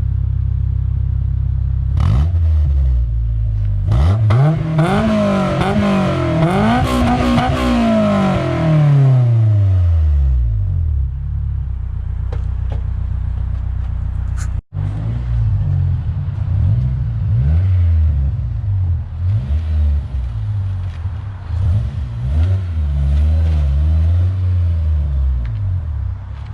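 Honda S2000's four-cylinder engine idling, then revved repeatedly through a J's Racing 60RS dual titanium exhaust, the pitch climbing and falling with each rev. The sound breaks off for an instant about halfway, and a series of shorter revs follows.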